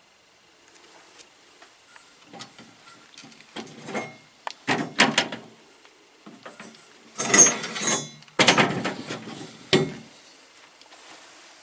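Parts being handled in a workshop: irregular knocks, rattles and scrapes in separate bursts, loudest in two bursts a little past the middle.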